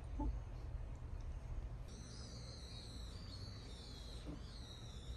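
A small bird singing a warbling song of high, shifting notes, starting about two seconds in, over a low steady hum.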